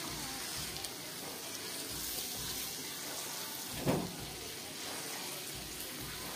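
Chicken pieces and onion masala sizzling in a pot as they are stirred with a spatula, with a brief louder knock or scrape of the spatula about four seconds in.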